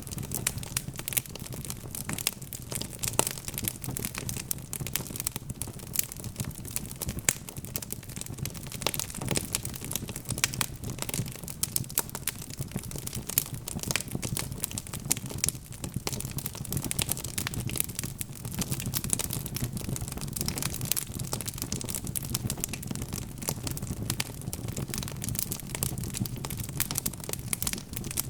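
Wood fire crackling: a continuous stream of small, irregular pops and snaps over a low, steady rumble of the flames.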